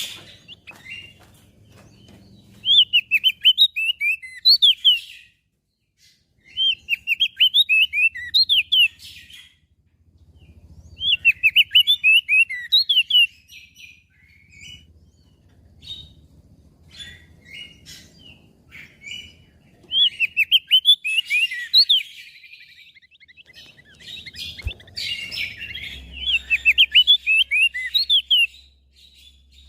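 Crested white-eye (opior jambul) singing in repeated phrases of quick, high chirping notes. There are about five phrases, each two to three seconds long, with short pauses and scattered single chips between them.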